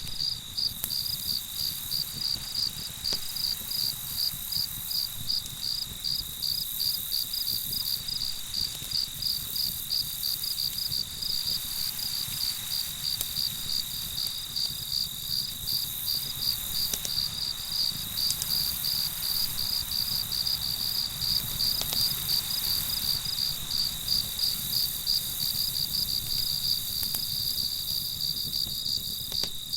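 Crickets chirping in an even rhythm, about two to three chirps a second, over a steady continuous trill.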